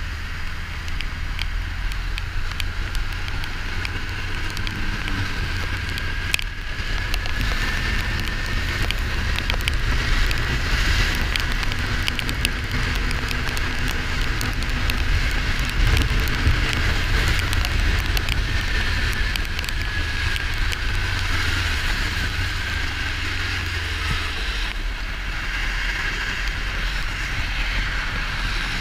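Kawasaki Ninja 400 parallel-twin running under way, heard through a helmet or bike-mounted microphone under heavy wind rush, with its pitch drifting slowly as speed changes. Scattered small ticks run through the noise.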